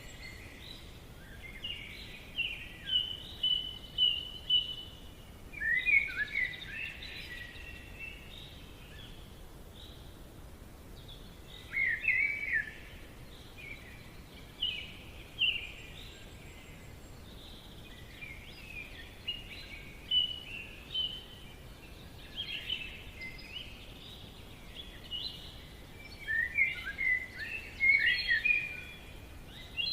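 Songbirds singing in a forest: bouts of quick chirping and warbling phrases every few seconds, with short pauses between, over a faint steady background hiss.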